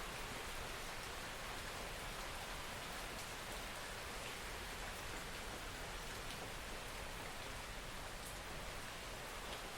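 Steady soft rain falling: an even hiss with a few faint, scattered drop ticks.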